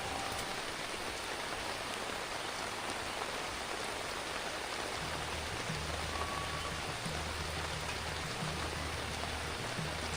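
Steady rain falling, an even hiss of drops. In the second half a low hum comes and goes beneath it.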